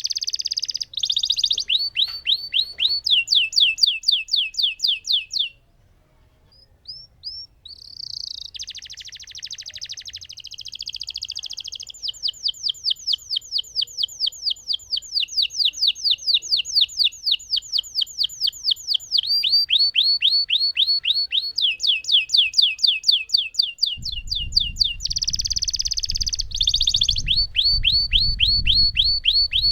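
Domestic canary singing long rolled trills: fast runs of repeated sweeping notes, several a second, changing from one roll to the next. There is a pause of about two seconds early on, then near-continuous rolls, with a low rumble under the song near the end.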